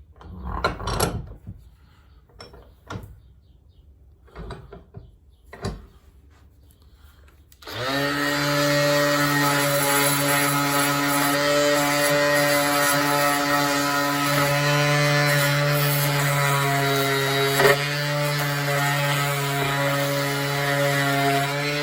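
A few scattered knocks of parts being handled, then about eight seconds in an electric power tool switches on and runs steadily with an even motor hum. There is one sharp click a little over halfway through the running.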